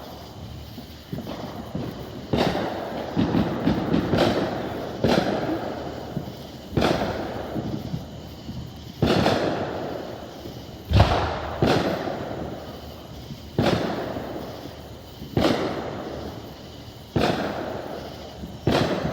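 Consumer fireworks going off in a steady series, a sharp bang about every one and a half to two seconds, each followed by a crackling tail that fades; the loudest bang comes a little past halfway.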